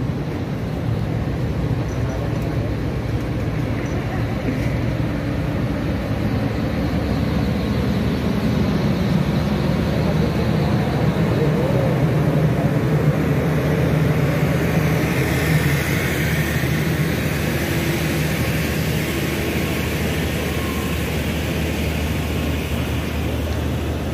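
Passenger coaches of a departing diesel-hauled express rolling slowly past, wheels rumbling steadily on the rails over a low, even hum, swelling a little partway through.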